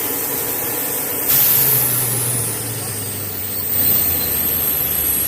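HH-60G Pave Hawk helicopter's turbine engines running with a steady rushing noise. About a second in the sound jumps louder, and a high whine slowly falls in pitch while a low hum sinks.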